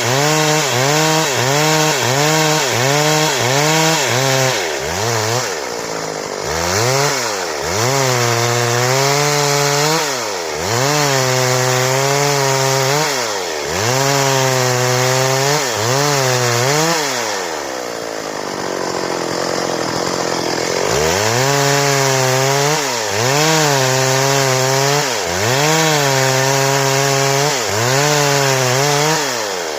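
Stihl chainsaw cutting boards, its two-stroke engine running at high revs with the pitch dipping and recovering again and again as the chain takes the wood. The pitch falls away for a few seconds about 5 s in and again about 18 s in before it climbs back to full speed.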